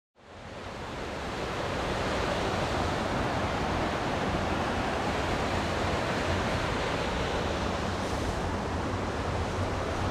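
Steady rush of falling and flowing water in a mountain gorge, fading in over the first two seconds and then holding even.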